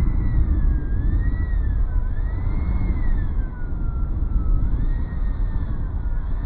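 RC model airplane's motor whining, its pitch rising and falling again and again as the throttle changes in flight, under heavy wind rumble on the microphone.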